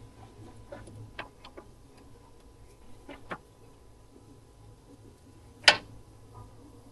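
Scattered light metallic clicks and taps of hand tools and parts being handled during steering-rack work, with one sharper click about five and a half seconds in.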